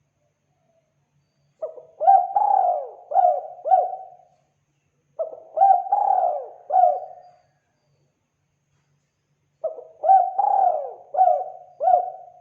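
Spotted dove (tekukur) cooing: three phrases of several low coos each, with a couple of seconds of silence between phrases.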